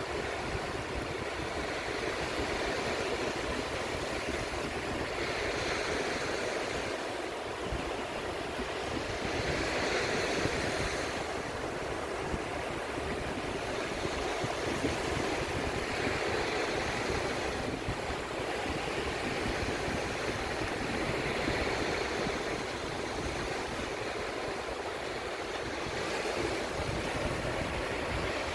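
Sea waves breaking and washing in a steady rush, swelling every five or six seconds as each wave comes in.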